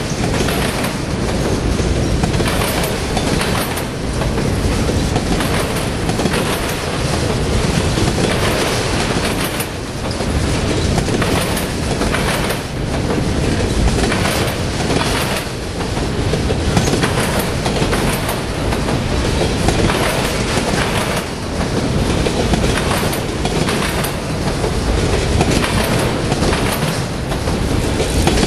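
Freight train of autorack cars rolling past at close range: a loud, steady rumble of steel wheels on the rails, broken by repeated clickety-clack as the wheelsets run over rail joints.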